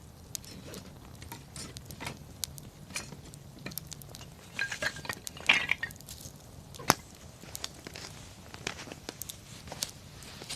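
Wood campfire crackling, with scattered sharp snaps and pops. A denser flurry of crackling comes about five seconds in, followed by one loud pop about a second later.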